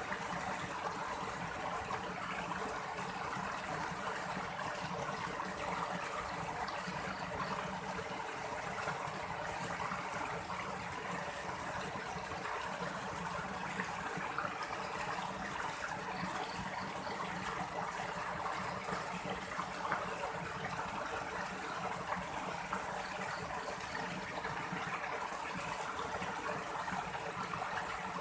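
Continuous, even rush of water, steady throughout with no distinct events.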